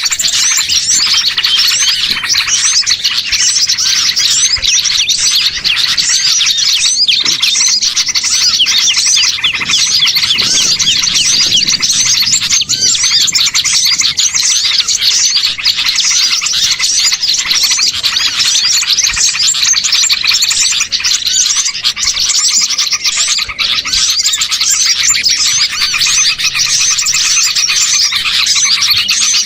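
Dense, steady chorus of many small songbirds chirping and trilling over one another, a bird-lure recording made to draw small birds in.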